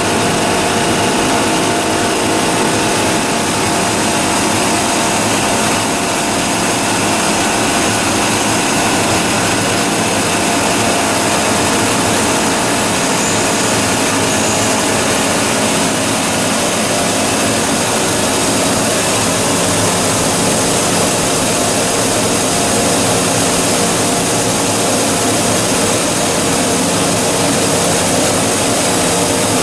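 Two-stage plastic recycling machine running steadily: a loud, even machine noise with several steady whining tones over it.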